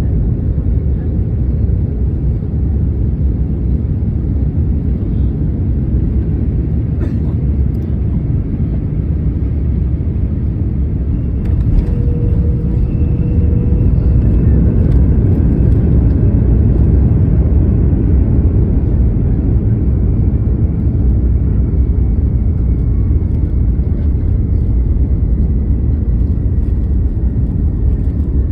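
Airliner cabin noise during landing: a steady low rumble of engines and airflow that grows louder about halfway through. A thin high whine slowly falls in pitch over the second half, with a couple of faint knocks.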